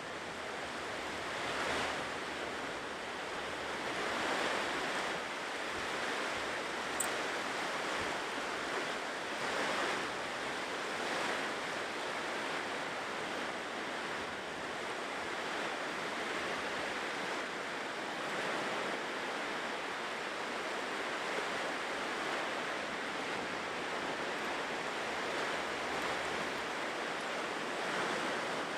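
Ocean surf washing onto a shore: a continuous rush of waves that swells and eases every second or two.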